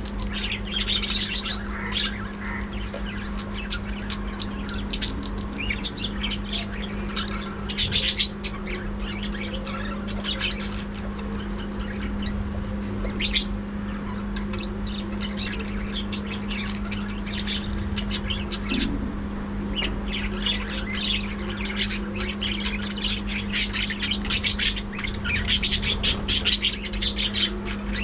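A flock of budgerigars chattering, with many short high chirps and squawks that grow busier in the last few seconds. A steady low hum runs underneath.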